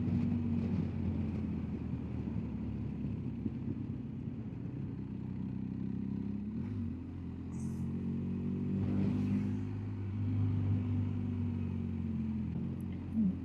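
BMW R1250GS Adventure's boxer-twin engine running steadily while the bike is ridden along the road. The engine note drops about halfway through, then climbs again.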